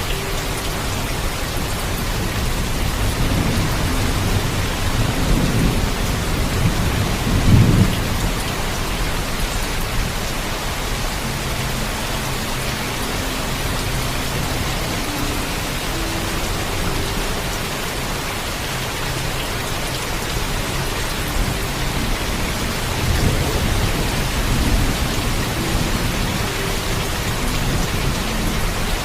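Steady heavy rain with low thunder rumbling twice, the louder roll a few seconds in and a softer one about two-thirds of the way through.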